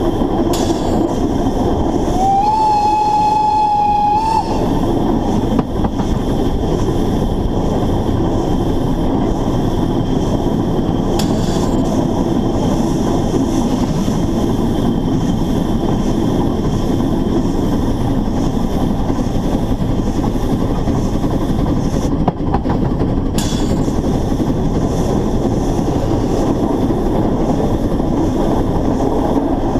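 Narrow-gauge steam locomotive running, with a steady loud running noise; its steam whistle sounds once for about two seconds, a couple of seconds in.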